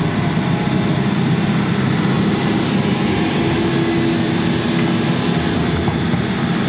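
Diesel engine of a piece of heavy equipment running steadily, with a brief steady tone near the middle.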